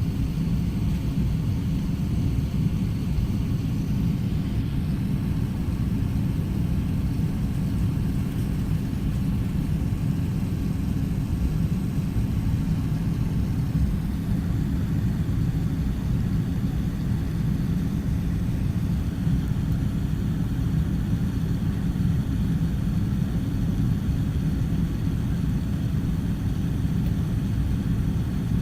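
Steady low rumble inside the cabin of an Airbus A380-800 airliner: its four jet engines and the airflow, heard through the fuselage, running evenly with no change in pitch.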